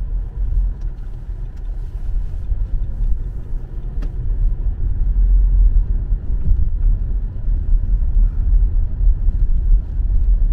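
Car cabin noise while driving: a steady low rumble of engine and road, with a single faint click about four seconds in.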